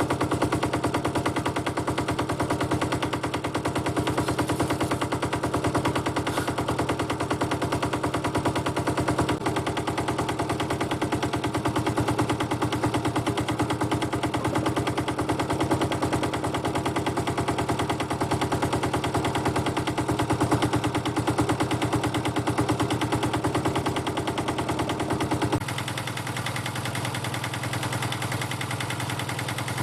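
Powerfab 125 mini digger's air-cooled Petter diesel engine running fast with a rapid, even firing beat. Near the end it drops back to a lower, quieter idle.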